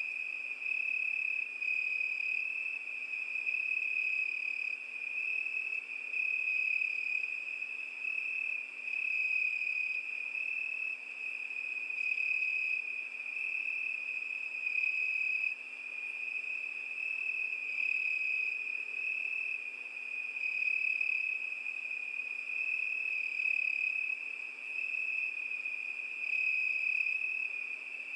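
Cricket chirping without a break, one steady high-pitched trill that swells and eases every second or two, over a faint hiss.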